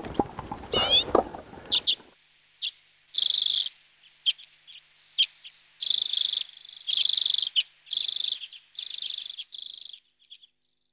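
A small bird singing: short high trilled phrases repeated about once a second over otherwise silent background. Before it, in the first two seconds, come a couple of sharp knocks, which then cut off abruptly.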